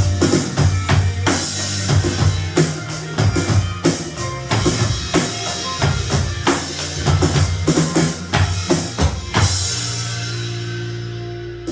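Drum kit played along with a pop ballad's backing track, with kick, snare and cymbal hits in a steady beat. About nine seconds in the drums stop on a final hit, and a cymbal rings out and fades over a held chord from the backing track.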